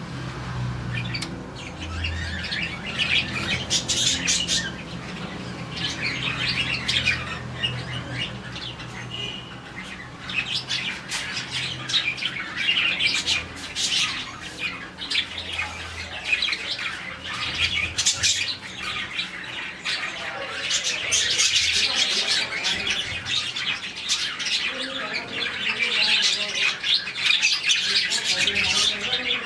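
A colony of about forty budgerigars chirping and chattering together in a dense, continuous chorus, the happy chirping of budgies in the morning. A steady low hum runs underneath.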